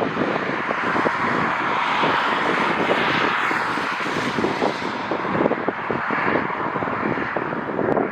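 Jet airliner's engines giving a broad rushing roar that swells in the middle and eases off toward the end, with wind gusts buffeting the microphone throughout.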